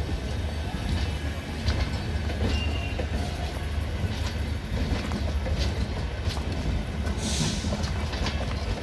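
Passenger coaches of a train rolling past, with a steady low rumble and the sharp clicks of wheels crossing rail joints. A brief hiss comes about seven seconds in.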